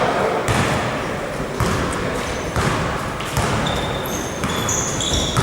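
Basketball being dribbled on a hardwood gym floor, bouncing about once a second with a reverberant thud, over the hubbub of the hall. Short high sneaker squeaks come in near the end.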